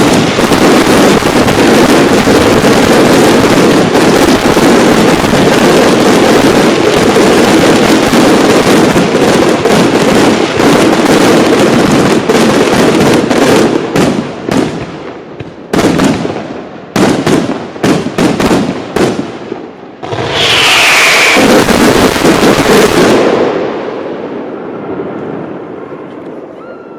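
Fireworks finale: a dense, continuous barrage of shell bursts for about fourteen seconds, then separate bangs thinning out. A last loud volley about twenty seconds in carries a falling tone, and the display then dies away in fading crackle and echo.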